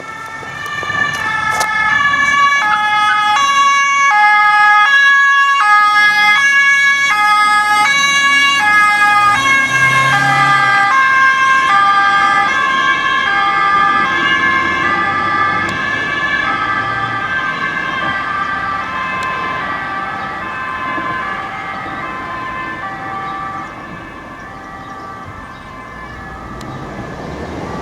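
German police patrol car's two-tone siren (Martinshorn) sounding its alternating high and low notes over engine and tyre noise on the road. It is loudest in the first several seconds, drops in pitch as the car goes past about ten seconds in, then fades as it drives away.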